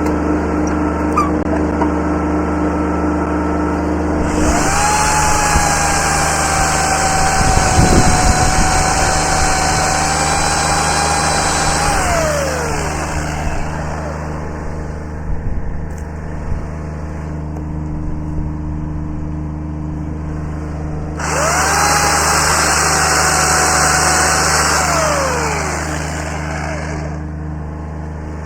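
Chainsaw idling and twice throttled up to full speed, each time holding a high steady pitch and then dropping back to idle. The first run comes about four seconds in and lasts about eight seconds; the second, shorter one comes near the end.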